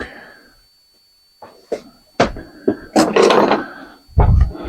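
Knocks and clatter of hard parts and tools being handled and set down on a work surface: a sharp knock, a few separate knocks, then a louder stretch of rattling and a heavy knock near the end.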